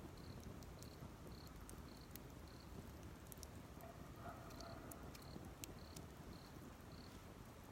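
Faint, evenly spaced insect chirps about every half second, in two runs with a short pause between, over a few sharp crackles from a wood campfire.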